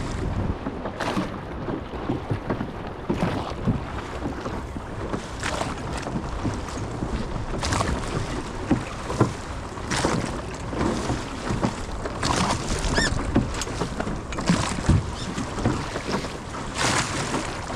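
Oars rowing a small sailing dinghy against chop: a splashing stroke about every two seconds over the wash of water and wind on the microphone.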